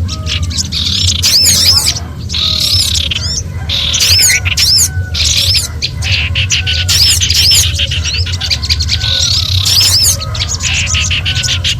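A mix of small songbirds giving agitated alarm calls, as if threatened, played as a bird-trapping lure. Bursts of rapid, high, scolding chatter come every second or two, with short lower slurred whistles in between, over a steady low hum.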